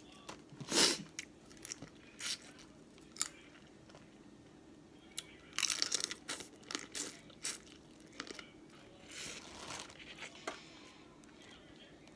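Close-miked eating of boiled crawfish: shells cracking and crunching, with chewing in between. The sharp cracks come at irregular times, the loudest about a second in and in a cluster around the middle.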